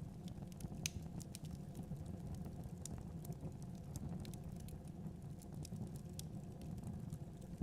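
Wood fire burning logs in a fireplace: a steady low rumble of the flames with scattered sharp crackles and pops at irregular moments, the sharpest about a second in.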